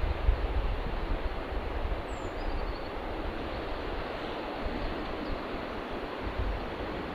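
Steady rain, a constant even hiss, with wind buffeting the microphone in low rumbles near the start. A bird chirps faintly a few times about two seconds in.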